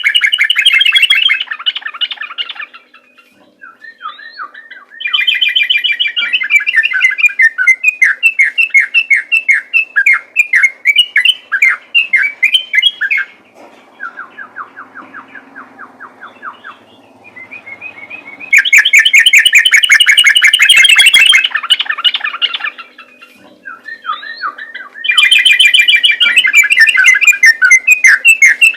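Yellow-vented bulbul (trucukan) singing a rapid, unbroken chatter of warbled notes in long loud bursts, the fast continuous 'ropel' song of a bird in fighting mode. About halfway through it drops to a quieter, quick run of evenly repeated notes before the loud chatter resumes.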